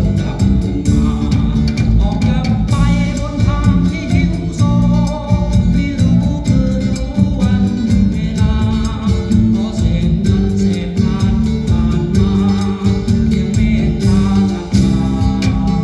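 A song with singing, guitar and drums played back through a competition car audio system for judging.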